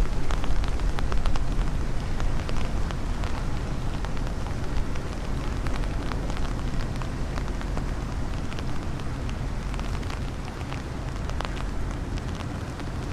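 Light rain and strong wind: a constant low rumble under a steady patter of many small crackling ticks.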